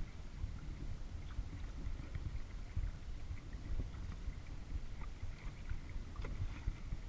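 Kayak paddling on a lake, heard through a GoPro: low, uneven wind buffeting on the microphone with scattered small splashes and drips of water.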